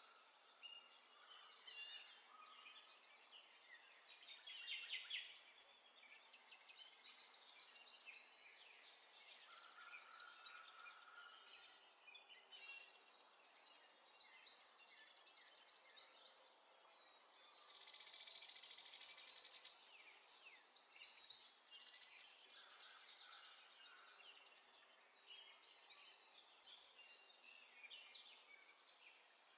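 Faint birdsong over a low hiss: birds chirping and trilling on and off, with a fast trill about two-thirds of the way through as the loudest part.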